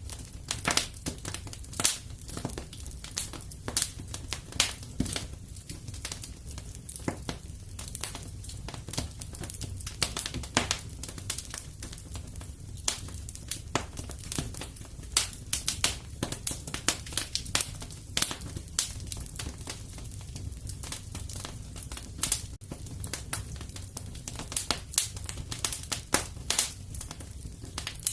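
Wood fire crackling in a fireplace: irregular sharp pops and snaps, many a second, over a steady low rumble of the flames.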